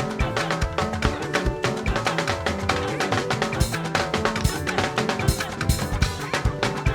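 Live band music driven by a drum kit, with a steady beat of bass drum, snare and rimshot hits over sustained instrumental notes.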